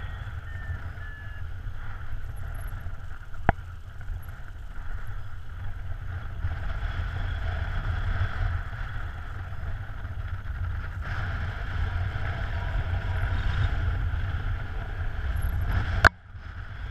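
Wind rushing over the microphone in flight on a paraglider, a steady low rumble. A sharp click sounds about three and a half seconds in, and another near the end, followed by a brief dropout.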